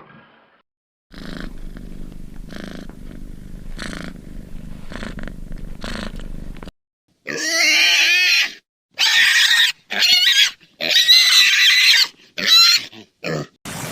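Animal calls in two parts. First comes a series of about five low, rasping grunts roughly a second apart. After a short break comes a run of loud, high-pitched screeching calls.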